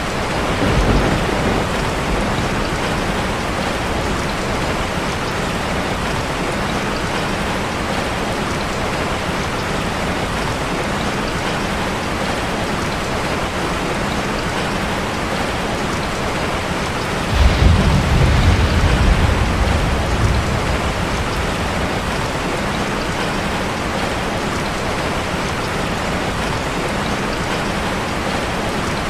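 Steady heavy rain drumming on a metal roof, with low thunder rumbling briefly about a second in and again, longer and louder, a little past the middle.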